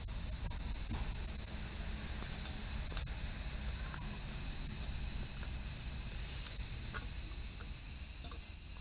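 Chorus of insects (crickets or cicadas) trilling in a steady, loud, high-pitched drone with no breaks.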